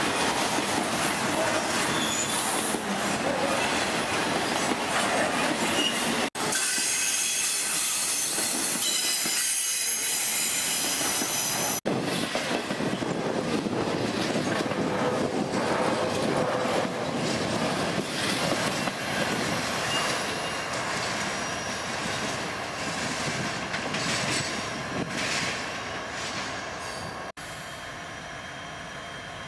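Intermodal freight train of trailers rolling past close by, with a steady rush and clatter of wheels on the rails. A stretch of high-pitched wheel squeal comes in partway through. Near the end the sound drops abruptly to a quieter steady rumble.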